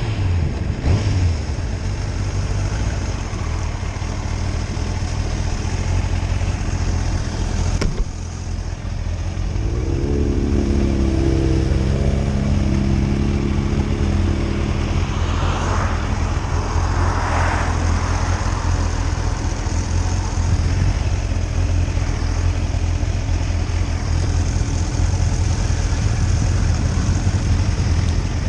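Motorcycle engine running steadily on the move, over a constant low rumble and wind rush. About ten seconds in, an engine's pitch climbs as it accelerates. Two swelling rushes of noise follow a few seconds later.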